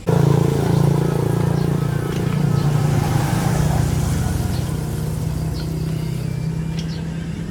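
The YLHX 1500 generator's small engine running steadily, coming in suddenly and loud, then easing slightly in level.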